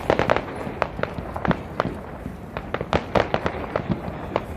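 Fireworks display going off: a rapid, irregular string of sharp bangs, thickest near the start and again about three seconds in.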